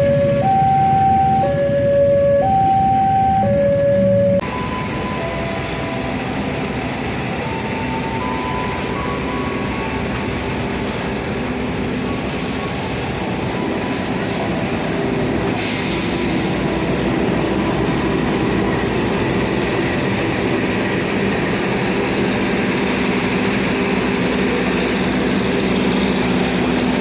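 A two-note alternating signal tone, high and low about every 0.7 s, for the first few seconds, then it cuts off suddenly. A train's steady rumble follows, with a few faint melody notes over it in the first half.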